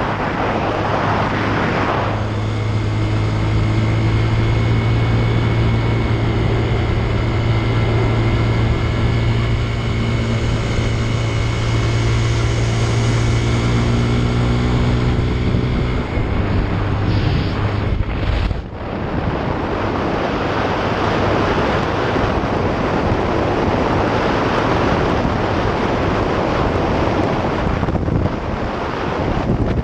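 Motorcycle engine running at a steady speed under heavy wind noise on the microphone while riding. A little past halfway the engine note briefly drops out, and afterwards the wind rush covers most of it.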